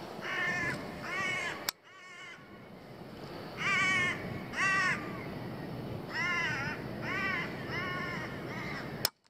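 A large bird calling over and over: about nine short, harsh, arched calls, several coming in pairs, over a steady outdoor hiss. Two sharp clicks, one about two seconds in and one near the end, each followed by a sudden change in the background.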